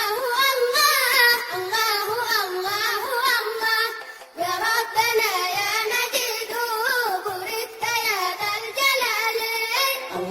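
Arabic devotional song (nasheed): a single voice sings a wavering, ornamented melody. It breaks off briefly about four seconds in, then carries on.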